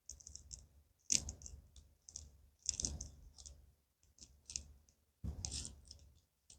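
Faint clusters of light clicks and taps, about six times, from handling a makeup brush and eyeshadow palette.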